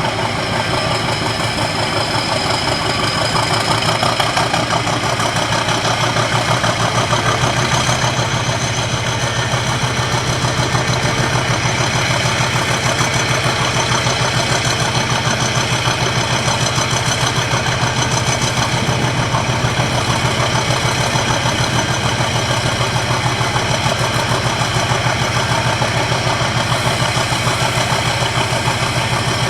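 English Electric 16CSVT V16 diesel engine of Class 50 locomotive 50033 idling steadily, with a high whine held above the engine beat.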